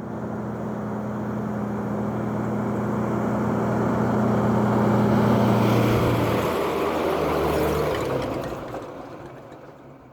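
A motor vehicle's engine going by, a steady hum that swells and then fades away, its tone dropping about two-thirds of the way through.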